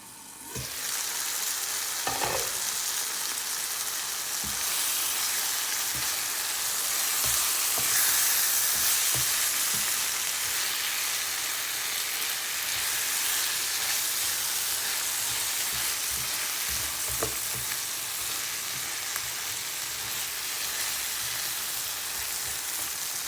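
Green beans sizzling as they fry in hot oil in a pan. A spatula stirs them and now and then knocks against the pan. The sizzling starts about half a second in.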